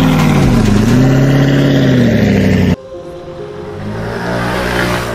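Subaru car engine revving: the revs dip and then climb again, then after a sudden cut a quieter engine hums with its pitch slowly rising.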